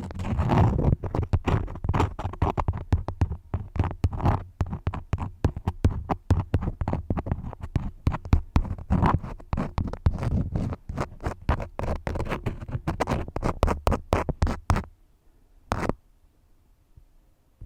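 Crayons scratching close to the microphone in quick, dense strokes with a low rumble underneath. The strokes stop near the end, and one short scrape follows a second later.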